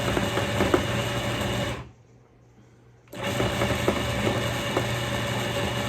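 Food processor motor running as it chops chilled beef suet into small pieces; it stops about two seconds in and starts up again about a second later.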